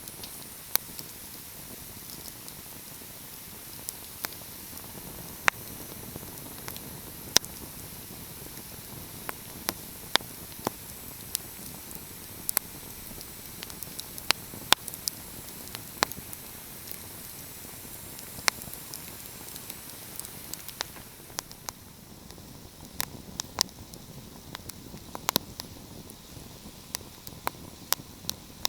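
Crackling fire: irregular sharp pops and snaps, a few each second, over a steady soft hiss.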